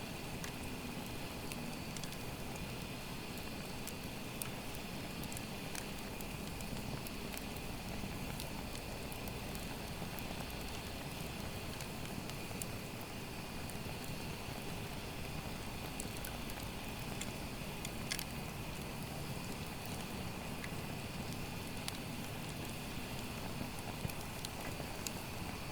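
Wood fire burning in a fire pit: a steady crackle with scattered sharp pops, two of the clearest in the second half.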